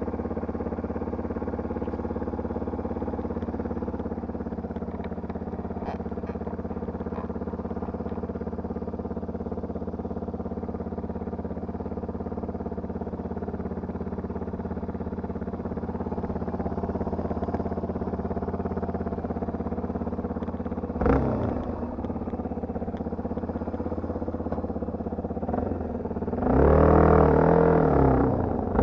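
Enduro motorcycle engine idling steadily. It is blipped once about two-thirds of the way through and revved up and down several times near the end.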